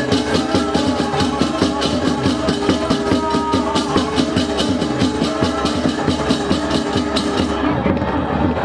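Balinese baleganjur gamelan playing: a fast, even beat of clashing ceng-ceng cymbals and drums over the steady ringing of gongs.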